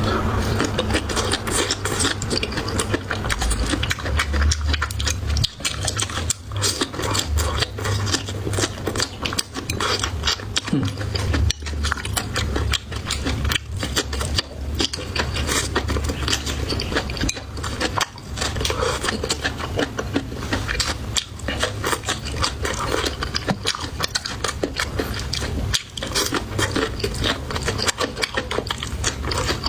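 Close-miked chewing and mouth sounds of a person eating, with dense, rapid wet clicks and smacks throughout.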